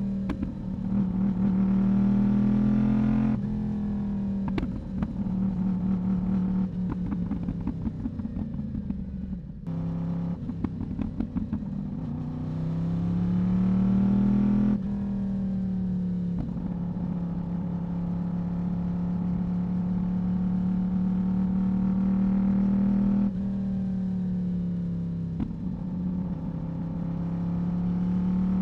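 Yamaha YZF-R1 inline-four sportbike exhaust under way. The engine note climbs and drops several times through gear changes, and holds steady for several seconds of cruising in the second half.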